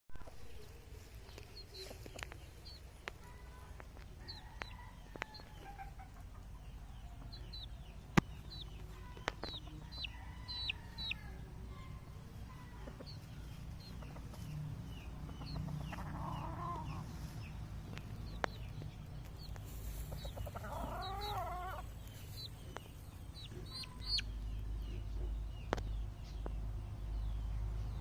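Gamefowl clucking and calling, with two longer pitched calls around 16 and 21 seconds in. Short high chirps repeat throughout, over scattered sharp clicks and a low background rumble.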